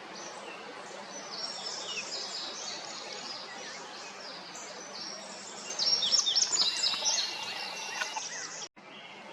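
Woodland birds singing: several overlapping chirps and trills over a steady outdoor hiss, with a loud, dense burst of song partway through. The sound cuts out abruptly for an instant near the end.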